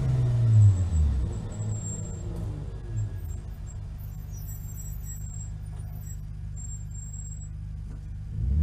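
BMW Spec E46 race car's inline-six engine heard from inside the cockpit, revs falling as the car coasts off the throttle to a stop. It then idles with a steady low rumble, and the revs rise briefly near the end.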